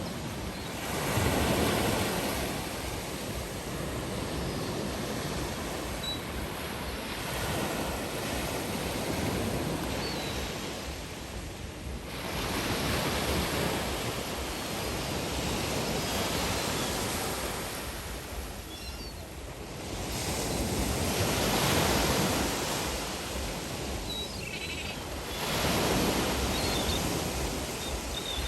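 Sea waves breaking on the shore, rising and falling in slow swells every four to five seconds over a steady surf hiss. A few faint, short high chirps come through now and then.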